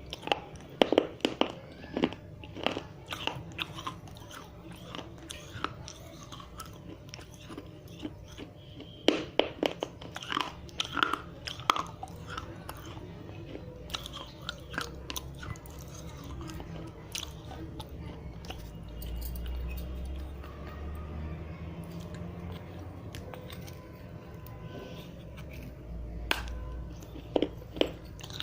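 Dry red clay diya being bitten and chewed close to the microphone: bursts of sharp, gritty crunches, with quieter stretches of grinding chewing between the bites.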